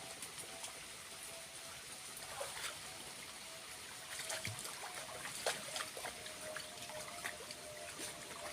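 A small waterfall trickling and splashing, with many small drips and splashes, more of them after the first couple of seconds.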